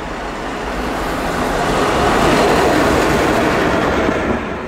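Electric locomotive passing close by on the track, its running noise swelling to a peak about halfway through and then fading away.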